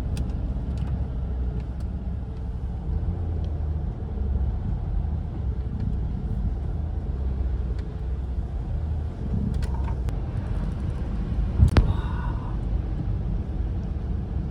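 Car cabin road noise while driving: a steady low rumble of the engine and tyres, with one sharp click or knock about two-thirds of the way through.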